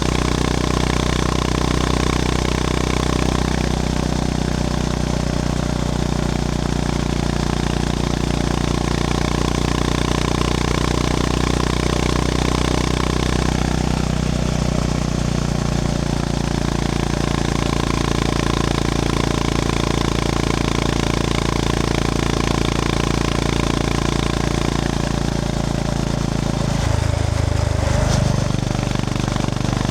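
Honda GB350S's air-cooled single-cylinder engine running while the motorcycle is ridden at a fairly steady pace, its note shifting near the end.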